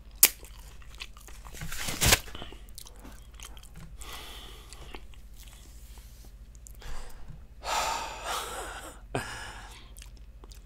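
Close-up chewing of a final mouthful of food, with sharp mouth clicks near the start and about two seconds in, and louder wet chewing stretches later on.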